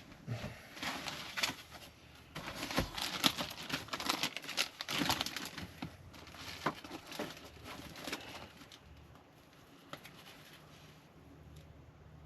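Clicks, taps and crackly rustling from hands working on computer parts and their packaging, busiest through the first eight seconds and quieter after.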